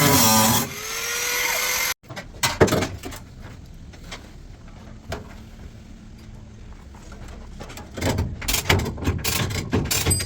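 Music fading out, then a hard cut to workshop sounds: scattered knocks and clicks of tools on a car's body, with a busier run of knocks near the end.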